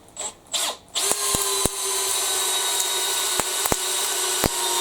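Makita XPH07 (DHP481) 18 V brushless cordless hammer drill in low gear, driving a long galvanized batten screw into timber without a pilot hole. Two short blips of the trigger come first, then the drill runs steadily at an even pitch from about a second in, with a few sharp clicks now and then.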